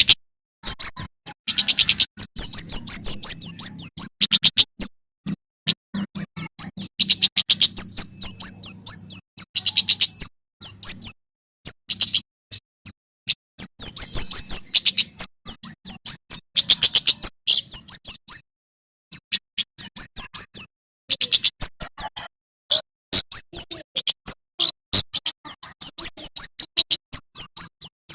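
Male prenjak keres (kemade) calling loudly in fast, rapid-fire bursts of sharp, high chips, with short pauses between the bursts.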